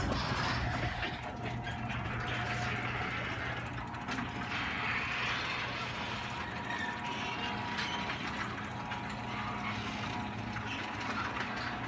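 Electric garage door opener running as the door opens, a steady mechanical run with a low hum. It starts with a clunk and cuts off abruptly near the end as the door reaches the top.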